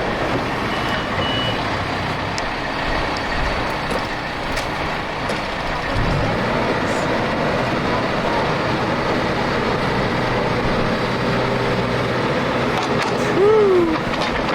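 Diesel engine of heavy earth-moving equipment running steadily as it works in deep mud, with a reversing alarm beeping and a rise in engine pitch about six seconds in.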